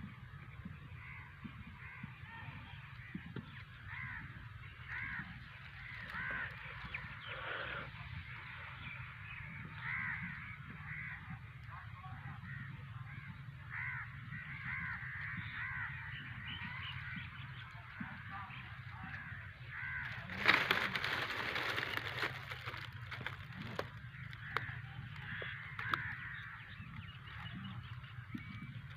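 Birds calling: many short, harsh calls repeated throughout over a steady low hum, with a louder noisy rush about two-thirds of the way through.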